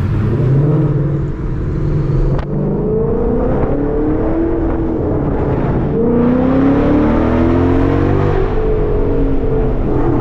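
Ford Mustang GT's 5.0 Coyote V8 accelerating under load through the exhaust. The engine note climbs in pitch, drops back briefly at gear changes about two and a half and six seconds in, then climbs again before easing off near the end.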